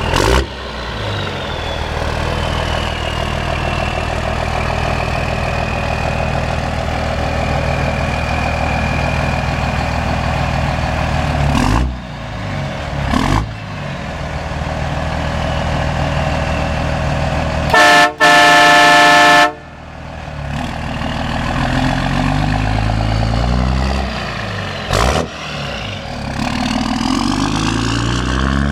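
Diesel engine of a lifted Dodge truck running, with a faint high whine that slowly falls. About two-thirds through, a loud multi-tone train horn blasts for about a second and a half, and near the end the engine revs up in steps.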